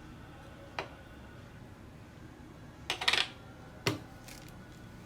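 Clicks and clatter of a Canon M50 camera body and its EF-M 15-45 mm kit lens being handled and fitted together. There is a single click about a second in, a louder rattling cluster around the middle and a sharp click just before four seconds.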